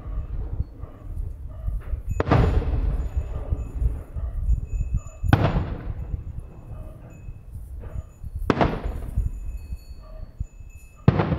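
Aerial fireworks shells bursting, four bangs about three seconds apart, each trailing off in a rolling echo.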